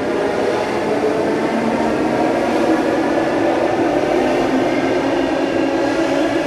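Electric passenger train at a station platform, a steady hum with several held tones from its motors and equipment.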